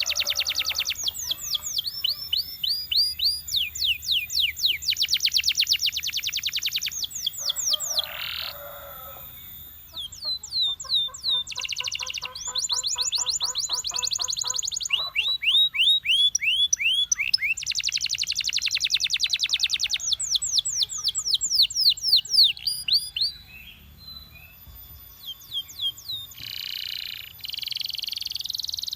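Belgian canary singing: long phrases of fast trills, each a quick run of identical rising or falling notes, switching from one trill to another, with a lower buzzy rolling trill in the middle and brief pauses between songs.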